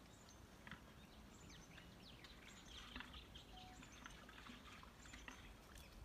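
Faint, scattered small birds chirping over a low, steady background rumble.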